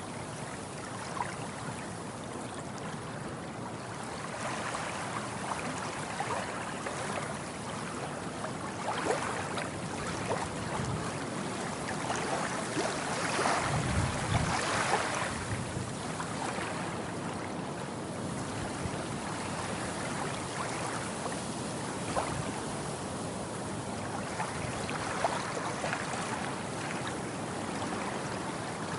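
Sea waves washing in: a steady rush of water with small splashes and crackles, swelling to its loudest about halfway through.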